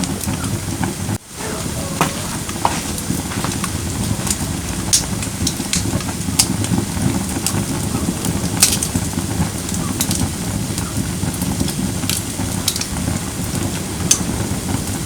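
Firewood burning in a fire pit: a steady low rush of flame with sharp, irregular crackles and pops from the burning wood. There is a momentary drop-out about a second in.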